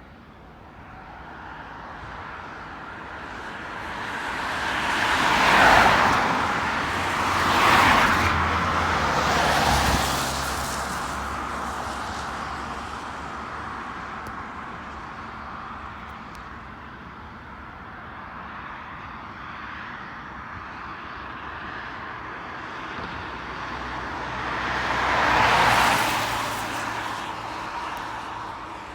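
Road vehicles passing close by, three in quick succession about two seconds apart and another near the end, each rising and fading over a steady background rumble.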